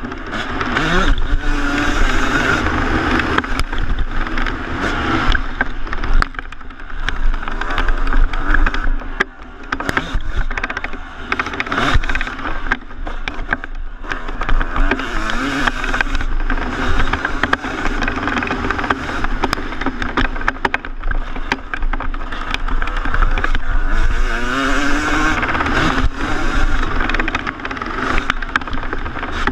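2014 Yamaha YZ250 single-cylinder two-stroke motocross engine revving up and falling back again and again as the bike is ridden hard around a track, with frequent sharp knocks from bumps and landings.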